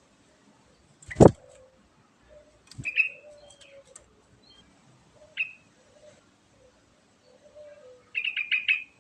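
Yellow-vented bulbul (trucukan) giving short, high chirps, then a quick run of about six notes near the end. A loud knock comes about a second in and a softer one just before three seconds.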